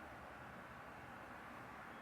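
Faint steady hiss of room tone, with no distinct sounds.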